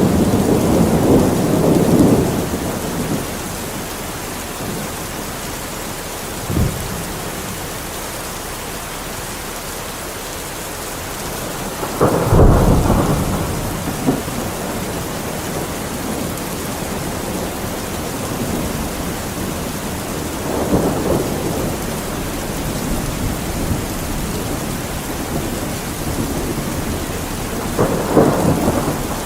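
Steady heavy rain with rolling thunder: rumbles at the start and near the end, a brief crack about six seconds in, and the loudest, sharpest thunderclap about twelve seconds in.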